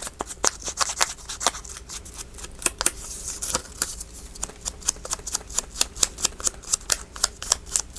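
Pink ink being dabbed and rubbed onto the edges of paper: quick, light taps and scuffs, several a second.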